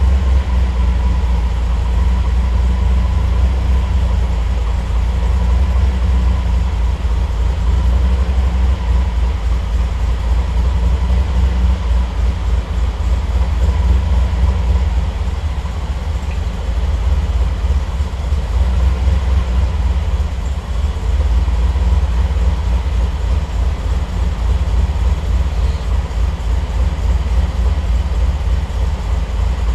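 Triumph TR8's Rover 3.5-litre V8 idling steadily as it warms up after a cold start, under Megasquirt engine management.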